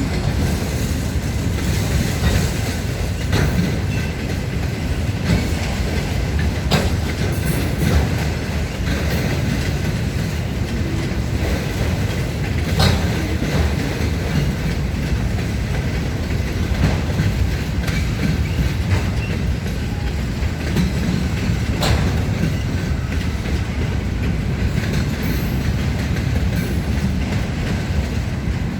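Union Pacific mixed freight train rolling past: a steady rumble of freight cars with the clickety-clack of wheels over rail joints and a few sharp clanks.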